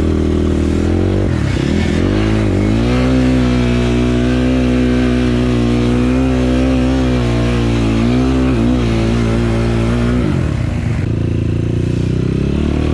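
Enduro motorcycle engine revving: the pitch sweeps up in the first couple of seconds and is held high and wavering for about eight seconds. It drops back about ten seconds in, then rises again near the end.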